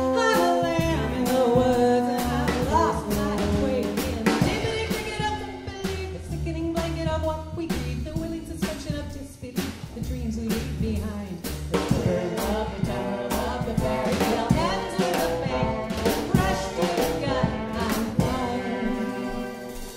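Live band playing an instrumental passage: pitched instruments over a drum kit, with many sharp drum hits. The music drops away near the end.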